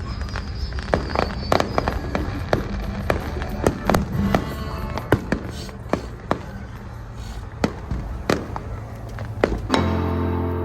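Fireworks display going off: an irregular series of sharp bangs over a low rumble. About ten seconds in it cuts off suddenly and music begins.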